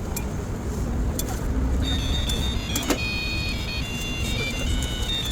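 Steady low street rumble with a few sharp clicks; about two seconds in, a high-pitched, tinkly electronic jingle starts playing and carries on.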